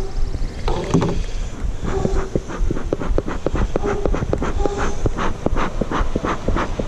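Wind rumbling on the microphone, with a steady run of short soft taps, a few a second.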